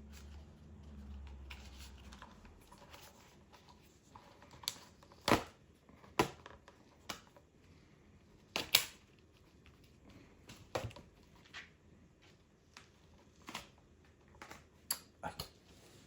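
Scattered sharp clicks and knocks of small parts and tools being handled, the loudest about five and nine seconds in, with a faint low hum in the first two seconds.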